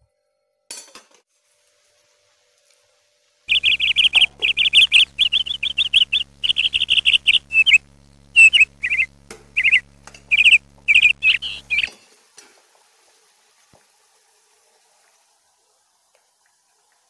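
A bird chirping in a quick run of high chirps, at first nearly continuous and then more spaced out. The chirps start suddenly a few seconds in and cut off abruptly about two-thirds of the way through, over a faint steady hum.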